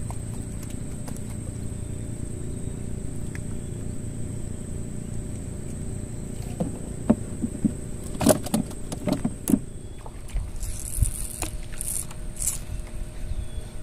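Small boat motor running steadily, with several sharp knocks about eight to nine and a half seconds in. About ten seconds in, the steady running gives way to a gusty low rumble.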